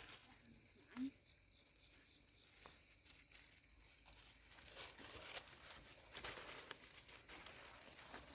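Quiet outdoor ambience with faint scattered clicks and rustling that grow busier after about five seconds, and one short low sound about a second in.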